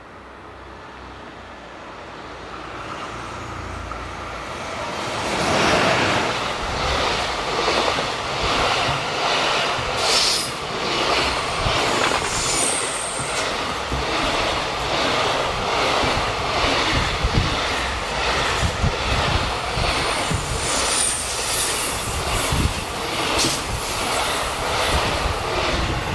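Freight train approaching and passing close by. Its wagon wheels clatter steadily over rail joints, with a few brief high wheel squeals on the curve.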